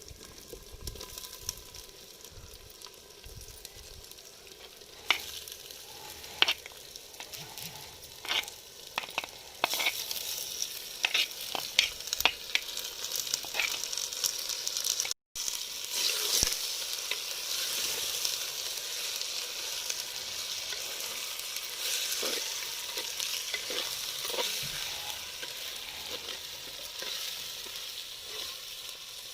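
Chicken pieces frying in hot oil with onions and spices, sizzling while a spoon scrapes and knocks against the pan as they are stirred. The knocks come mostly in the first half; the sizzle grows louder about ten seconds in and then runs steadily, with a brief break about halfway.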